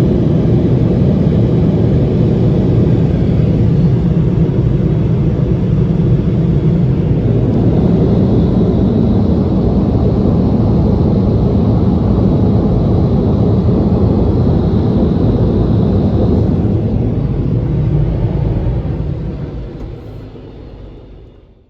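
Car wash air dryer blowers running with a loud, steady blowing noise that fades out near the end.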